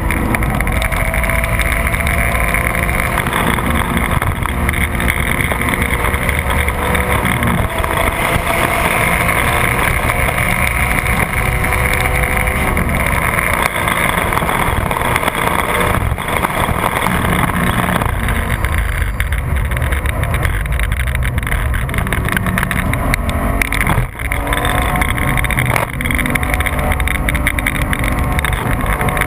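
Porsche 996 GT3's flat-six engine pulling hard at track speed, its pitch climbing in repeated sweeps as it runs up through the revs, over heavy wind and road noise. A brief drop in loudness comes about 24 seconds in.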